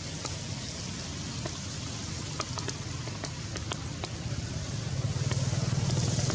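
Steady rain falling, with scattered sharp drips and a low rumble underneath that grows louder about five seconds in.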